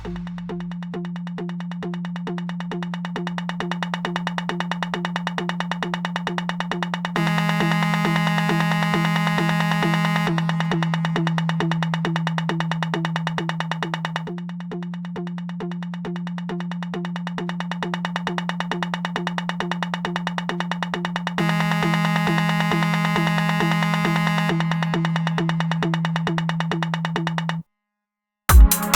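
Electronic music: a sustained low synthesizer tone under a steadily pulsing synth note, with no drums. A brighter synth chord layer swells in twice. Near the end it cuts to a moment of silence, and then the beat with kick drum comes back in.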